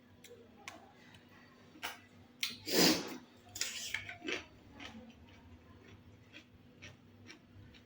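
Close-up eating sounds of a rice-and-dal meal: scattered small clicks of chewing and plate contact, with one louder noisy crunch about three seconds in followed by a short hiss.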